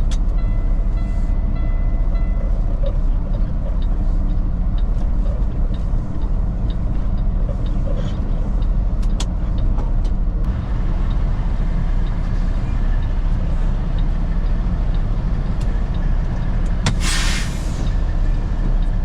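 Semi truck's diesel engine running at low speed with a steady low rumble while parking. Near the end comes a short, sharp burst of air hiss, typical of the air brakes or parking brake being set.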